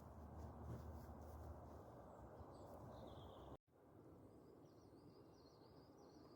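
Birds singing faintly over a steady low outdoor hum. After a brief dropout about three and a half seconds in, a bird repeats a short high phrase several times.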